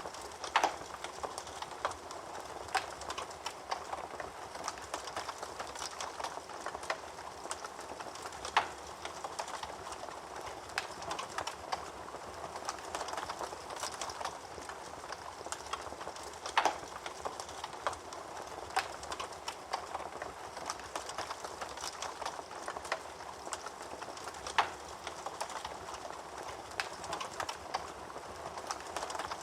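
Wood fire burning in a fireplace: a steady soft hiss full of irregular crackles, with a few sharper pops standing out.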